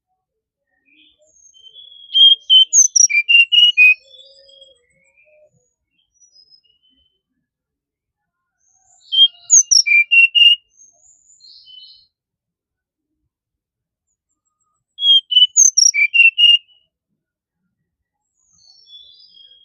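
Brown-chested jungle flycatcher singing: three short phrases of quick, clear notes about six seconds apart, with faint softer notes between them.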